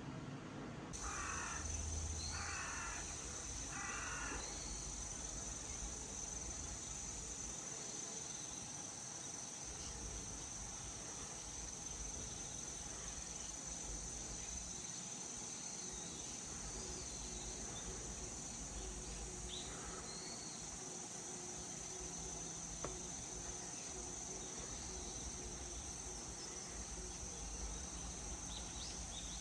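Outdoor ambience: a bird gives three short harsh calls about a second apart near the start, over a steady high insect drone that sets in about a second in.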